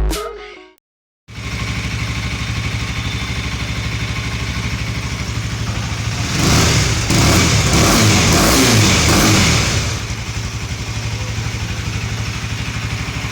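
KTM Duke 250's single-cylinder engine idling through its side-mounted exhaust, then revved in a series of rising and falling blips for about four seconds from around six seconds in, before dropping back to a steady idle.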